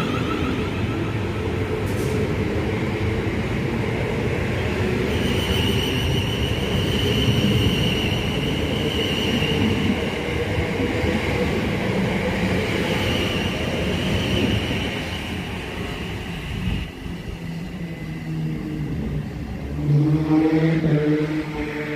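South Western Railway electric train running through the station: a steady rail rumble with a high whine that fades after about fifteen seconds. A short low pitched tone sounds near the end.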